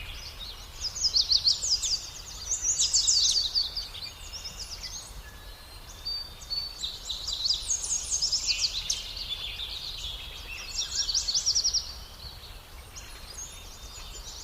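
Nestling birds begging for food: rapid high-pitched cheeping in bursts of a second or two, five times over.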